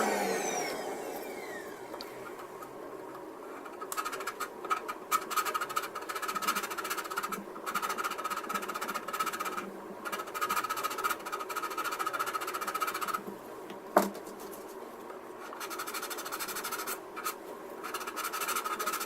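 A small vacuum cleaner winding down, its whine falling in pitch over the first couple of seconds. Then hand sanding of plastic kit parts with abrasive paper, rasping in irregular strokes, broken by one sharp click about three-quarters of the way through.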